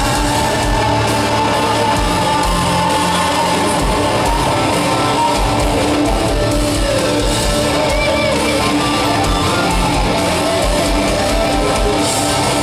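Live country-rock band playing loud in an instrumental break, electric guitar to the fore with some bent notes, over a steady kick drum.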